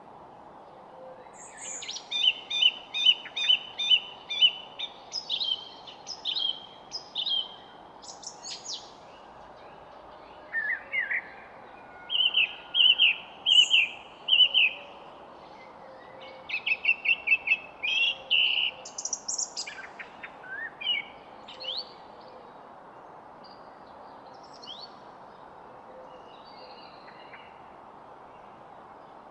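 Songbirds singing: phrases of quick, repeated clear whistled notes with short pauses between them, thinning out in the last third, over a steady faint background hiss.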